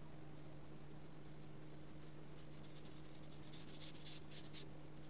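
A bristle paintbrush brushing gouache onto paper: a run of short, quiet, scratchy strokes, louder in the second half as the near bank is being covered.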